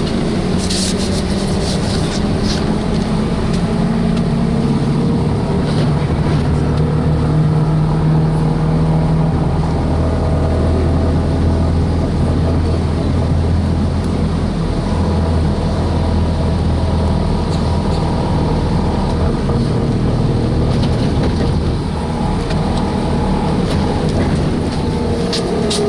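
VMZ-5298.01 trolleybus heard from inside the cabin while driving: a steady low rumble of road and running gear, with the electric traction drive giving pitched tones that shift as speed changes and one tone falling near the end. A few short rattles are heard near the start and again near the end.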